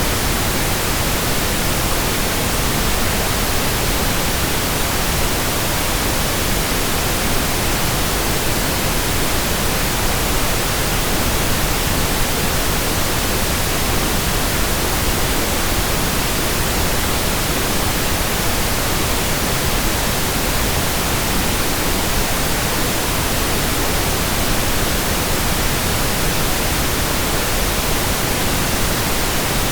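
Steady pink noise: an even, unchanging hiss spread across the whole range.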